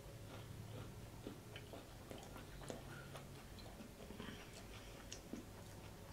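Faint close-up chewing of a crisped-rice cereal bar topped with chocolate chunks and marshmallows: scattered small, irregular mouth clicks and crackles.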